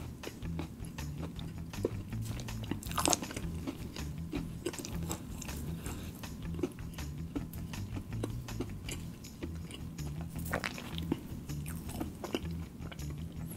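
Close-miked chewing and crunching of crispy fried chicken tenders, with louder crunchy bites about three seconds in and again near eleven seconds.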